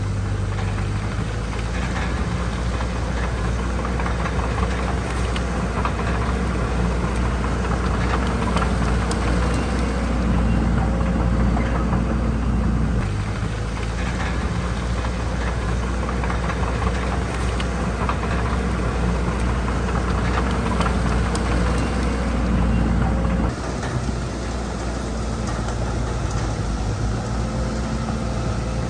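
Heavy diesel engine of earthmoving machinery running steadily, with scattered metallic clicks and rattles over it. The engine note shifts about halfway through and drops noticeably near the end.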